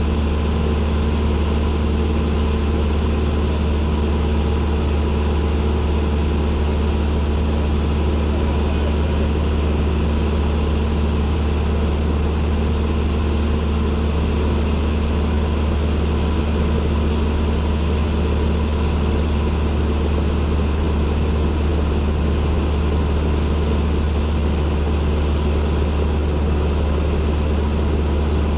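Cessna 172N's four-cylinder Lycoming engine and propeller running with a steady, unchanging drone, heard from inside the cockpit.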